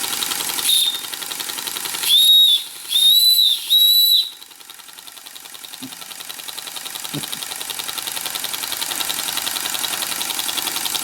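Whistle on an Empire B43 toy live steam engine: a brief toot, then three high blasts in quick succession about two to four seconds in. Under it the little steam engine runs with a fast, even beat that falls away after the whistle and slowly builds back up.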